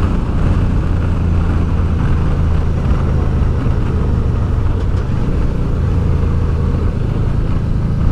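Honda Deauville motorcycle's V-twin engine running steadily while riding along at a constant pace, a constant low drone with no gear changes or revving.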